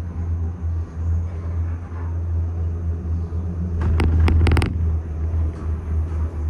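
Steady low rumble inside a moving Disney Skyliner gondola cabin, with a brief rapid clatter of clicks about four seconds in.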